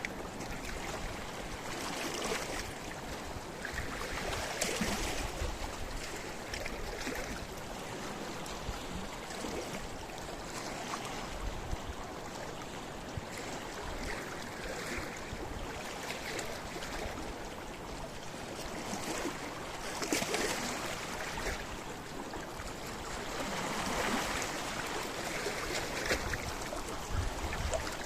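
Sea waves washing against a rocky shore, a steady rush of water that swells and breaks every few seconds.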